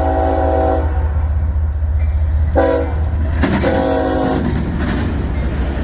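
CSX diesel locomotive's multi-tone horn blowing: a blast that ends about a second in, a short blast near the middle, then a blast of about a second, in the long-long-short-long pattern for a grade crossing. Under the horn is a steady low engine rumble, and the rolling noise of the train grows in the second half.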